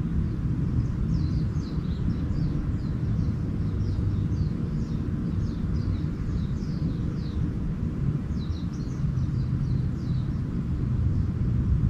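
Small birds twittering in quick runs of short falling chirps, over a steady low rumble that is the loudest sound throughout.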